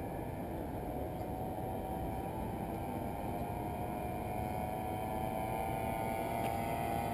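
Small motorbike engine running, its pitch and loudness climbing slowly as the bike speeds up.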